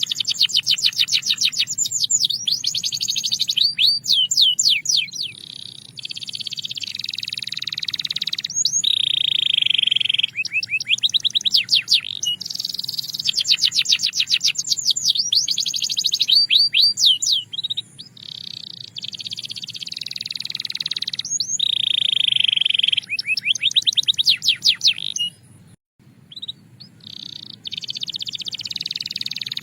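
Belgian canary singing a continuous song of fast trills alternating with steady, high held notes, broken by short pauses.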